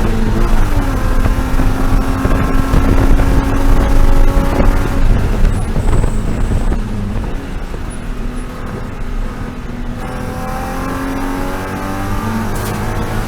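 BMW E36 M3 race car's straight-six engine running hard under racing load. The pitch drops about half a second in and then holds high for several seconds. Around the middle it eases to a quieter, lower note, then climbs steadily again toward the end.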